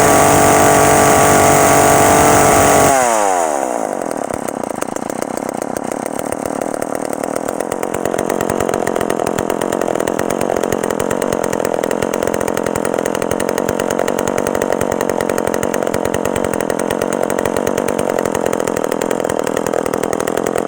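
An old two-stroke chainsaw runs at high revs, then drops sharply to idle about three seconds in. It idles with a rapid, even firing rhythm and cuts off abruptly at the end as it is shut off.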